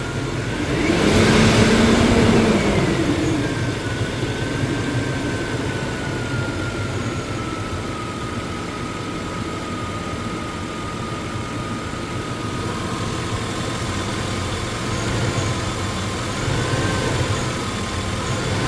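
1999 GMC truck V8 idling steadily, with a short rev about a second in. The intake manifold gaskets are freshly replaced, and the owner says the engine still misses sometimes.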